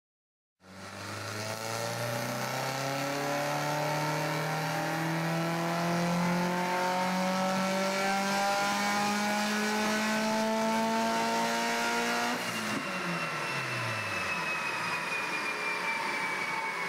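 Turbocharged Subaru WRX STI flat-four, fitted with a twin-scroll turbo kit, making a full-throttle pull on a chassis dynamometer: the revs climb steadily for about twelve seconds, then the throttle closes and the engine winds down with a high whine falling away.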